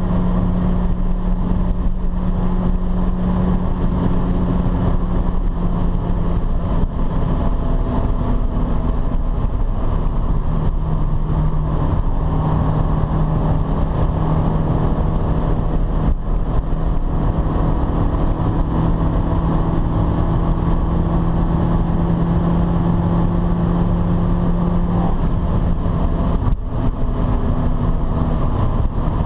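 Honda CRX's D16A9 DOHC four-cylinder engine running steadily at high revs at high speed. It is heard inside the cabin as a steady drone over wind and tyre noise.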